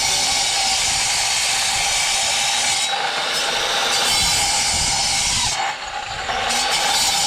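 A motor-driven tool running steadily, a loud hiss over a constant hum, easing off briefly for about a second near the end before picking back up.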